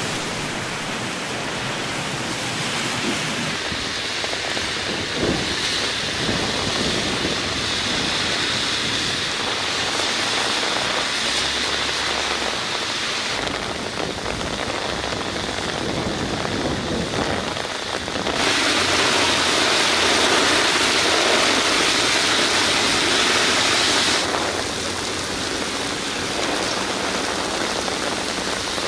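Heavy rain pouring onto a city street and pavement: a steady, dense hiss that jumps up or down in level abruptly a few times, loudest for several seconds past the middle.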